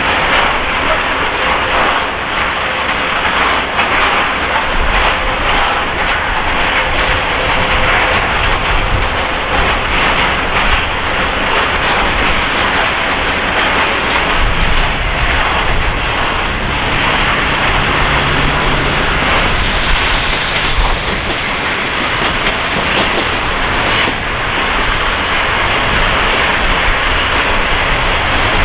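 Freight train of open-top wagons rolling past, its wheels clattering steadily over the rail joints.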